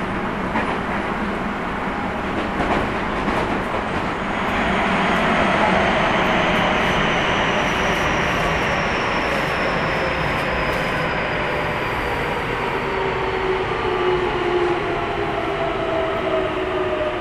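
Keio 1000 series train with a Toyo GTO-thyristor VVVF inverter heard from inside the car: the inverter and traction motors whine in several falling tones from about four seconds in, over steady wheel and rail noise, as the train slows under braking on the approach to a station.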